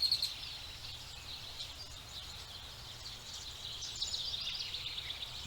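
Forest ambience: small birds chirping on and off over a steady low background noise, with a short flurry of quick chirps about four seconds in.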